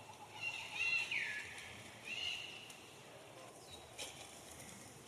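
A young monkey giving a few short, high-pitched squealing calls, some ending in a falling sweep, with a couple of faint clicks near the end.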